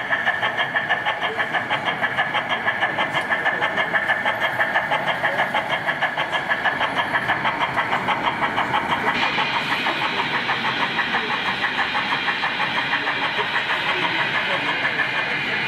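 Model railway locomotive running on a layout, with a regular beat of about four to five pulses a second that shifts in tone about two thirds of the way through.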